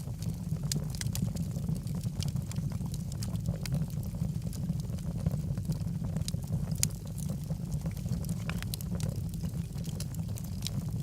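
Wood logs burning in a fireplace: a steady low rumble of the fire with frequent small crackles and pops scattered throughout.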